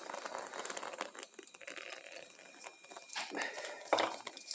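Irregular crackling and crinkling from a fireplace being lit, with paper and kindling catching, and a few louder snaps near the end.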